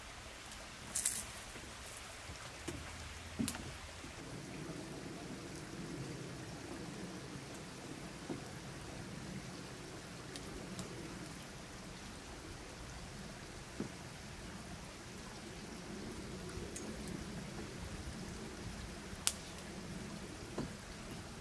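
Steady light rain with dripping, and a few sharp taps; a low steady background sound comes in about four seconds in.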